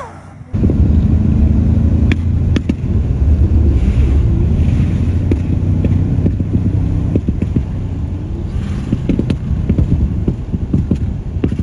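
A heavily tuned turbocharged car engine driven hard, with a deep low rumble and frequent sharp exhaust pops and cracks of the kind antilag makes. It starts suddenly about half a second in, and the cracks come thicker near the end.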